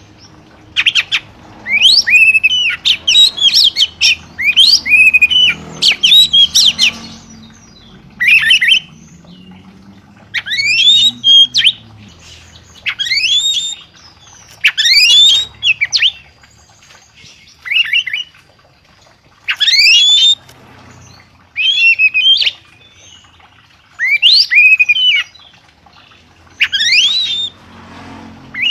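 A songbird calling over and over: loud, sharp rising calls, each under a second long. They come thick and fast for the first several seconds, then settle to one call every second or two.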